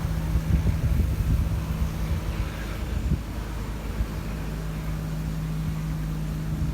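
Strong wind buffeting the microphone in gusty low rumbles, with a steady low engine-like hum that fades for a second or two midway.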